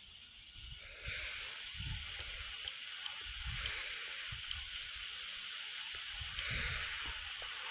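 Steady rushing hiss of air noise in an Airbus A320 cockpit, getting louder about a second in and swelling briefly near the end, with irregular low rumbling thumps underneath.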